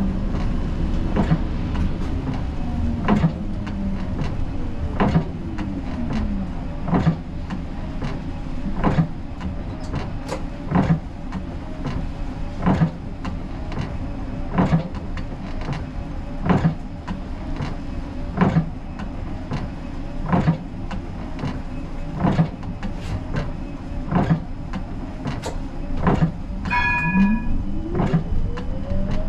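Siemens Combino tram's electric traction drive whining down in pitch as it brakes to a stop, then standing with a regular click about every two seconds. Near the end a short chime sounds and the drive whine rises again as the tram pulls away.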